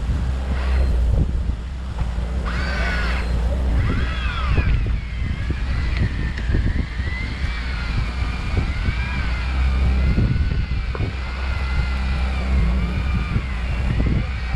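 Fishing boat's engine running with a steady low rumble. From about two seconds in, a whine rises and falls in pitch over it.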